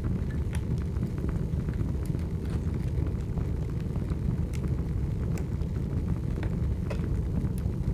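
A large fire burning: a steady low roar with scattered sharp crackles and pops.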